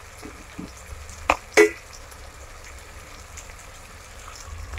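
Onions, tomatoes and freshly added cumin seeds frying in oil in a metal pot: a steady low sizzle. About a second and a half in come two sharp knocks, a third of a second apart.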